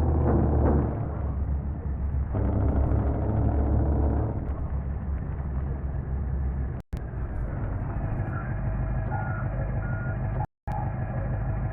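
Truck engine running, heavier in the first few seconds, with a reversing alarm giving a few short high beeps in the second half. The sound drops out briefly twice.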